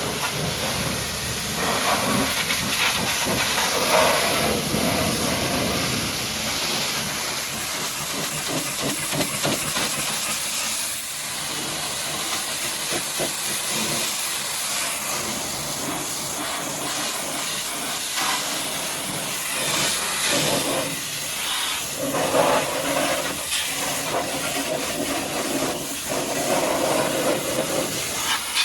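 High-pressure washer jet spraying a muddy truck: a steady hiss of water whose tone shifts as the spray moves over different surfaces.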